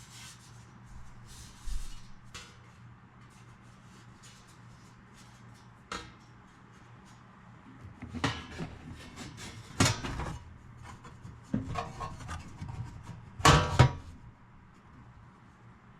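Top panel of a stereo cabinet being fitted back on: wood scraping and rubbing against the cabinet, with a few knocks. The longest scrapes come in the second half, the loudest near the end.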